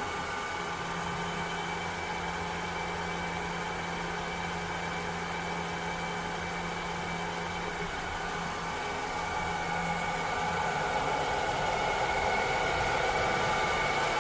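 Cleaning robot running: a steady motor whir with a faint high whine. A low hum comes in about a second in and drops out at around ten seconds, after which the whir grows a little louder.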